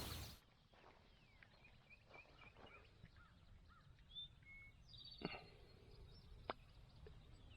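Faint scattered bird chirps and short calls over a quiet outdoor hiss. A louder sound cuts off abruptly in the first half second.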